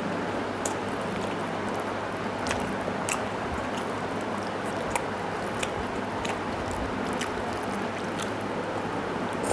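Wet eating sounds of chewing and swallowing soft rice and chicken stew, with short sharp clicks every second or so, over a steady background hiss.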